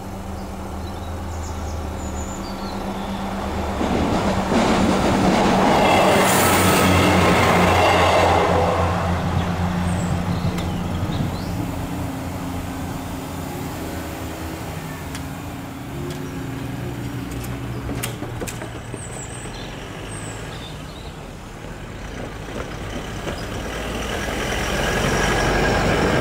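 A train passes over the level crossing, loudest about four to nine seconds in, then fades. Near the end a road car drives over the crossing, close by.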